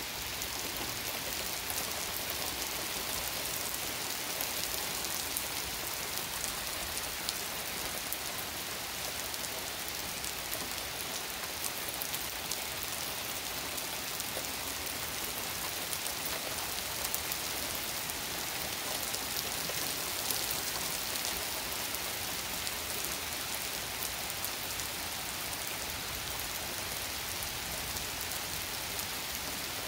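Rain falling steadily onto paved road and driveway: a dense, even hiss scattered with the ticks of individual drops.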